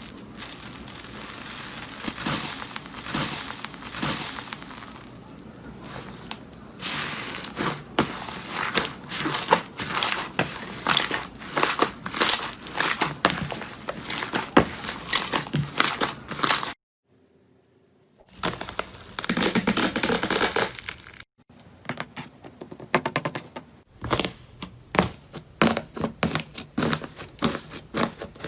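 Slime being squeezed, stretched and poked by hands, giving a dense stream of sticky clicks, pops and crackles. The sound breaks off briefly about two-thirds of the way through, then starts again.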